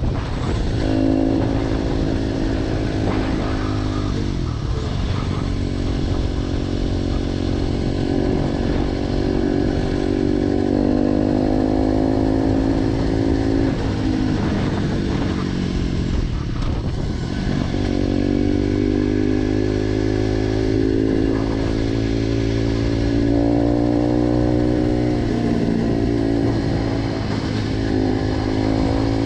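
Motorcycle with a G.P.R aftermarket exhaust being ridden. The engine note climbs slowly and falls back several times, as with throttle changes or gear shifts.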